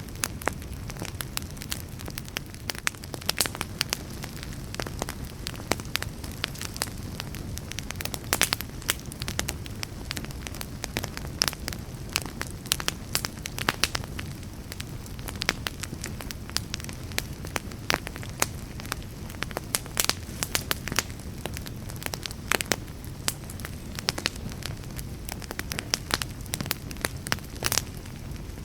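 Wood fire burning: frequent irregular sharp crackles and pops over a low, steady rumble of the flames.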